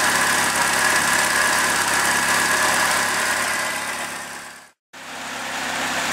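Triumph Dolomite 1300 four-cylinder engine idling steadily as it warms up on its first run after fitting. The sound fades away to silence just before five seconds in, then fades back up.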